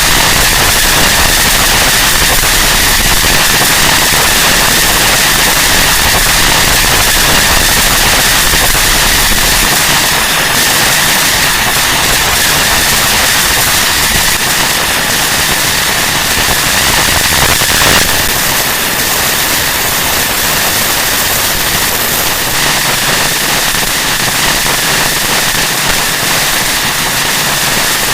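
Harsh noise music: a loud, dense wall of static with a steady high whine held through it; a deep rumble underneath drops out about ten seconds in.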